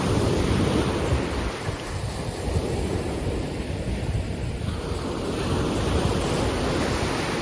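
Ocean surf washing in, with wind buffeting the microphone as a low rumble; the sound swells and eases a couple of times.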